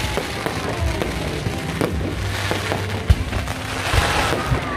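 Aerial fireworks bursting overhead in repeated sharp bangs and crackles, the loudest bang about three seconds in, with music playing underneath.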